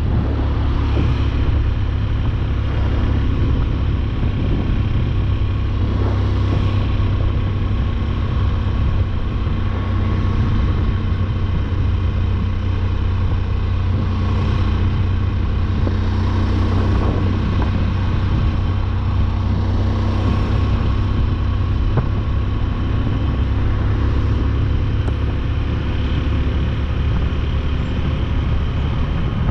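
Motorcycle engine running steadily while riding, with road and wind noise and a few brief hissing swells.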